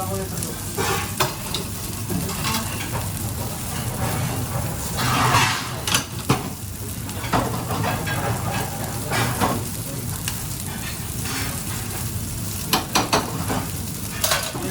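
Food frying and sizzling in a pan while a utensil stirs it, with sharp knocks and scrapes of the utensil against the pan now and then.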